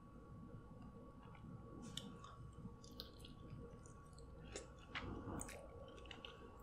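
Faint wet chewing and mouth smacks of a person eating soft seafood coated in alfredo sauce, with scattered small clicks.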